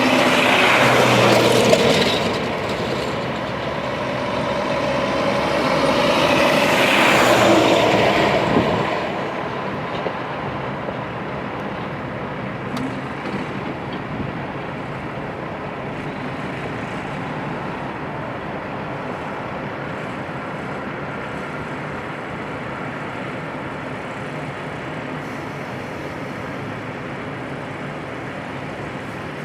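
Heavy truck engines running, swelling louder twice in the first nine seconds and then settling to a steady rumble.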